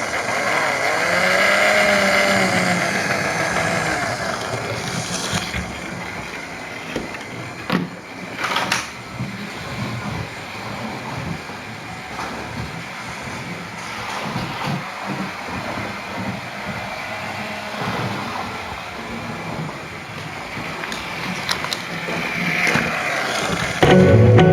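Model railway train running, a steady mechanical whirr with a wavering motor tone in the first few seconds and a few sharp clicks around the middle.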